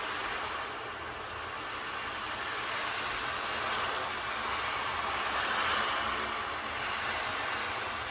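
Wave board (ocean drum) played by tilting it so the beads roll across the head, making a steady surf-like wash that swells gently and is loudest about six seconds in.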